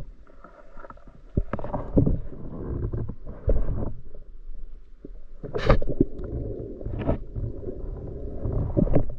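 Muffled water sloshing and swishing around a camera in the water, with a steady low rumble and a handful of irregular louder swooshes.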